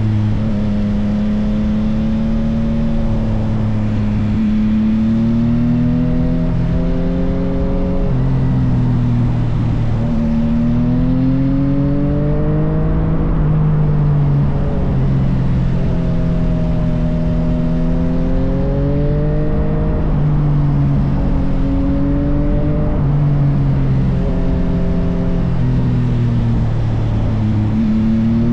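Yamaha XSR900 inline-three engine running through an M4 full aftermarket exhaust under way. Its note rises and falls over and over, with several sudden steps in pitch as it shifts gear.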